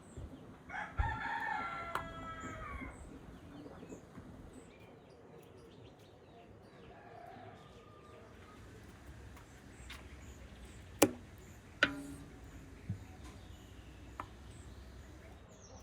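A rooster crows once, about a second in, a call lasting about two seconds that falls in pitch at the end. Later come two sharp knocks a second apart, then a couple of fainter ones, with faint bird chirps in the background.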